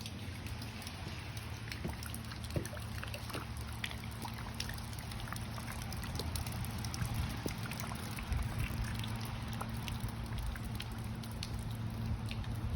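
Rain falling, with many scattered drops ticking and dripping close by over a steady hiss, and a low steady rumble underneath.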